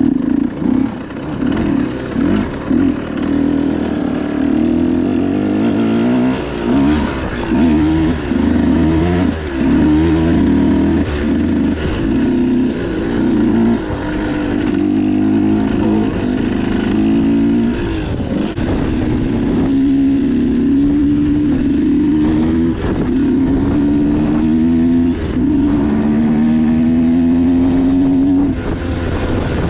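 Motocross dirt bike engine being ridden hard. The revs climb and drop again and again, with short breaks as gears are shifted.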